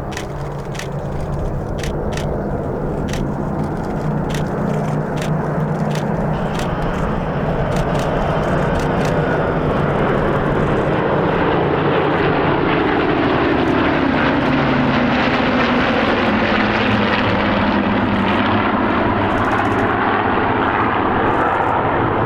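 A formation of Supermarine Spitfires flying past, their propeller engines running together. The sound grows louder early on, and the engine note drops in pitch about two-thirds of the way through as the aircraft pass.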